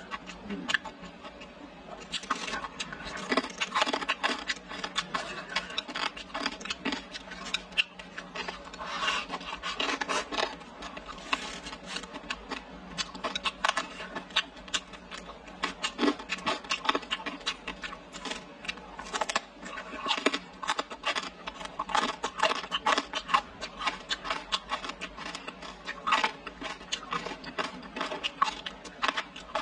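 Close-up mukbang eating sounds: a dense run of wet chewing and mouth clicks over rice and braised pork, with wooden chopsticks scraping in the bowl. It gets busier about two seconds in.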